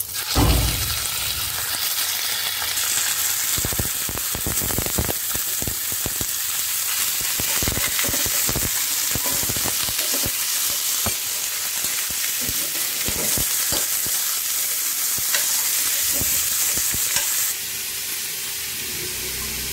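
Raw chicken pieces hitting hot oil with onions in a stainless steel pan, a loud surge of sizzling about half a second in. The frying sizzle then goes on steadily under the clatter of a steel ladle knocking and scraping the pan as the chicken is stirred. The sizzle cuts off about two seconds before the end, leaving a fainter hiss.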